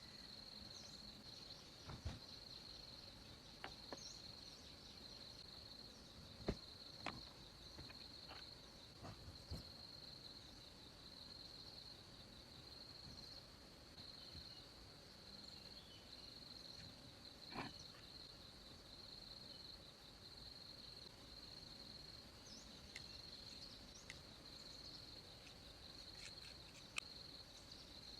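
Faint, steady high-pitched chirring of insects, with a few short faint knocks and clicks scattered through it.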